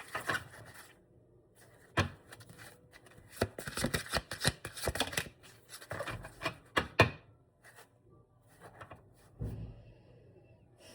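A tarot deck being shuffled by hand: irregular bursts of cards rustling and snapping, with sharp clicks around two seconds in and a busier stretch in the middle, then quieter pauses.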